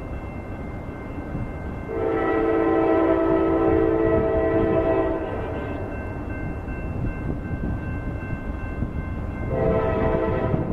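Locomotive air horn sounding over the rumble of a train: one long blast of about three seconds, then a second blast starting near the end.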